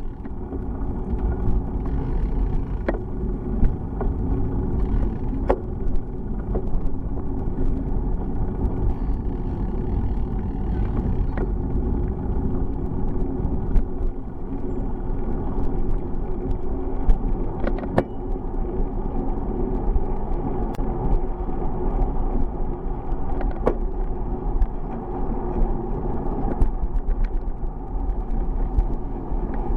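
Steady rumble and rattle of a bicycle being ridden, the tyres on the road shaking a camera mounted on the bike, with sharp clicks every few seconds.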